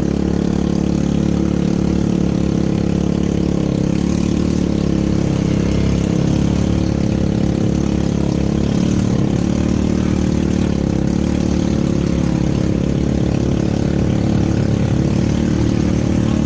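ATV engine running steadily at an even, unchanging pitch.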